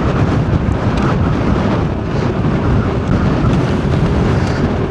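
Steady low rumble of a moving car's road and wind noise, with wind buffeting the microphone.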